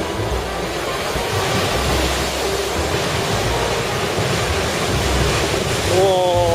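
Heavy storm surf from typhoon waves, a dense steady wash of breaking water, with gusts of wind buffeting the microphone in low rumbles. Right at the end a voice starts a falling exclamation.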